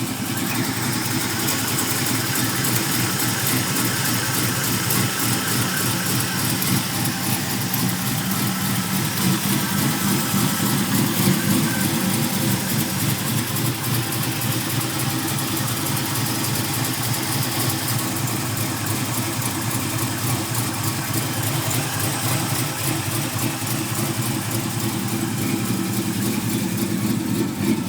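Chevrolet small-block 350 V8 idling steadily through a dual exhaust with 40 series Flowmaster mufflers.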